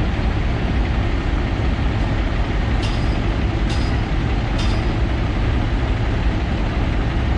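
Heavy diesel engine of construction machinery running steadily, with three short high clicks a little under a second apart near the middle.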